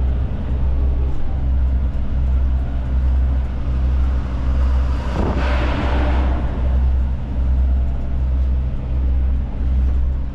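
Heavy diesel truck engine idling with a steady low rumble. About five seconds in, a brief rush of noise swells and fades.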